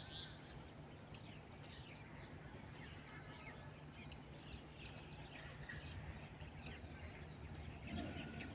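Faint outdoor ambience: small birds chirping in short, repeated calls over a low steady hum.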